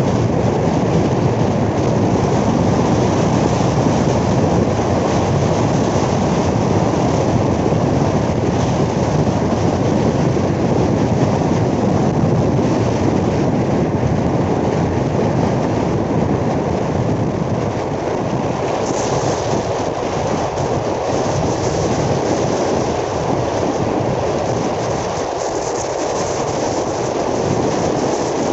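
Steady rumbling rush of a passenger train running at speed, heard from on board, with wind across the microphone.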